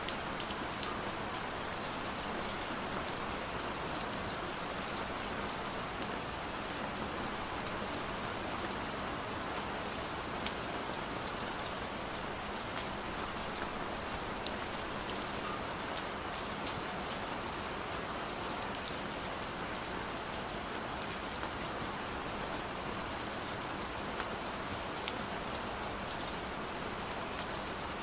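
Steady rain falling, with scattered sharp ticks of single drops landing.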